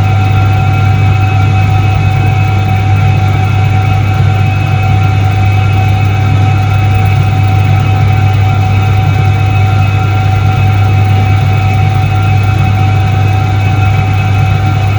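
1978 Soviet ISET-3 washing machine running: a loud, steady motor hum with a strong low drone and a few steady higher tones over it.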